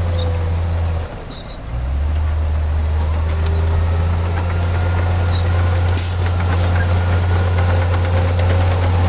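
Heavy diesel engine of earthmoving machinery running with a steady low drone, broken off briefly about a second in and then picking up again at a slightly lower pitch.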